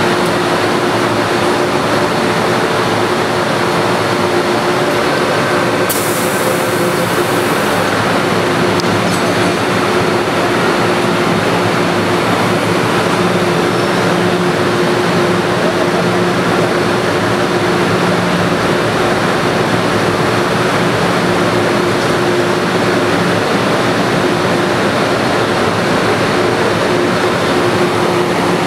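MTR M-Train electric multiple unit noise heard from on board: a steady rumble with a low hum. A short high hiss comes about six seconds in.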